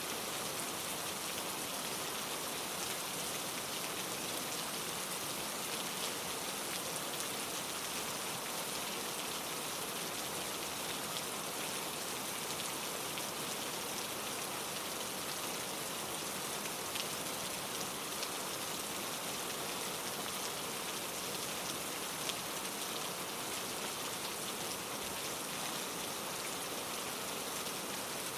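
Steady rain falling on leaves, an even hiss with faint scattered drop ticks.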